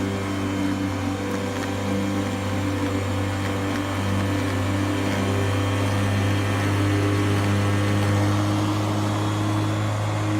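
A lawn-care machine's motor running steadily at constant speed. It is a continuous, even hum with no pauses or revving.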